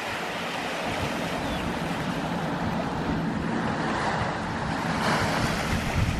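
Ocean waves washing on the shore. The surf is a steady rush that swells up about four seconds in and again about five seconds in.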